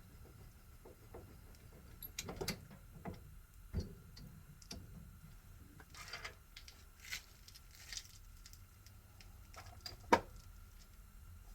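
Scattered light clicks and knocks, with one sharp knock near the end, over a faint steady hum.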